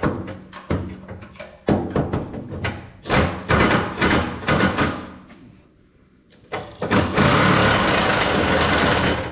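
Tools knocking and clicking against metal as a seized, torch-heated exhaust stud nut is worked loose, then a loud steady mechanical noise for about two seconds near the end.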